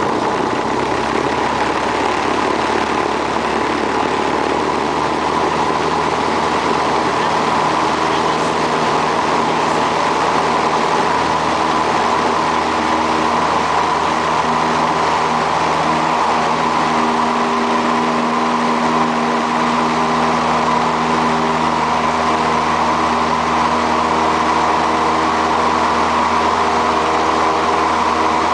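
Light aircraft's piston engine and propeller running steadily at takeoff power during the takeoff run and climb.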